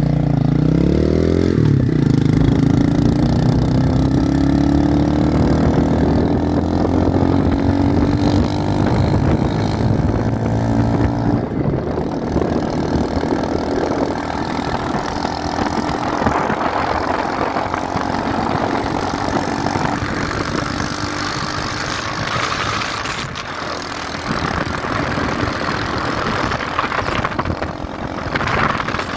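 Motorcycle engine revving and pulling away, its pitch climbing steadily for about ten seconds before a break around the middle. Through the second half, wind rushing over the microphone at speed covers most of the engine sound.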